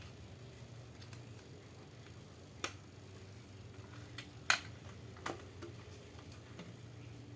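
Three short, sharp clicks, the loudest about halfway through, over a faint steady low hum.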